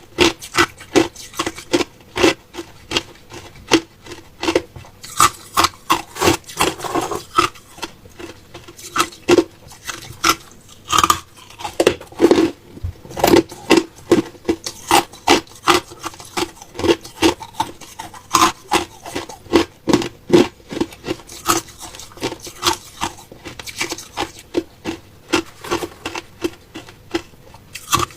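Ice being chewed close to the microphone: a steady run of sharp crunches, about two to three a second.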